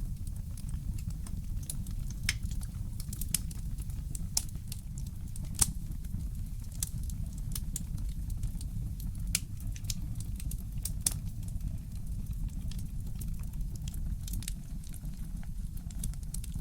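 Wood fire crackling in a fireplace: irregular sharp pops and snaps, roughly one loud one a second among fainter ticks, over a steady low rumble.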